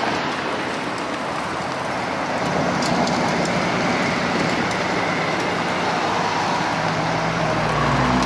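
Supercar engines running as a convoy of police supercars, a Bugatti Veyron among them, drives past, over steady road noise. A low engine rumble swells near the end as the cars pull away.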